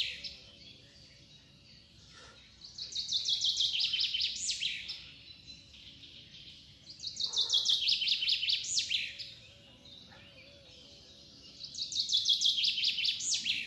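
A songbird singing the same phrase three times, about four seconds apart: a fast run of high notes falling in pitch, ending in a short rising flourish.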